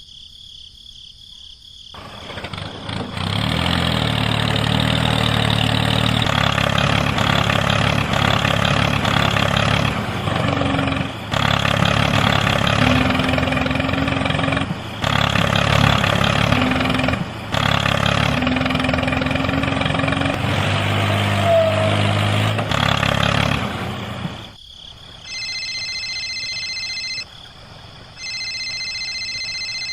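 A small engine running steadily for about twenty seconds, starting a couple of seconds in, dropping out briefly a few times and stopping a few seconds before the end. After it stops, insects trill in shrill bursts.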